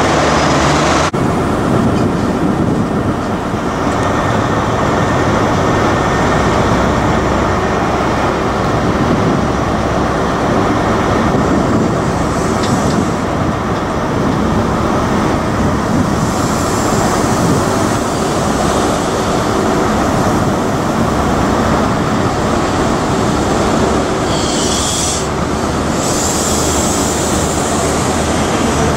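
Class 43 HST diesel power car and coaches running along a platform, a loud steady engine and rolling noise. Brief higher-pitched sounds come twice in the second half.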